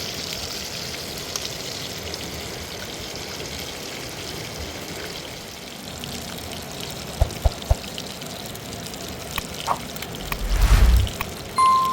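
Mountain river water running steadily. Three short low knocks come just past halfway, and a louder low thump near the end.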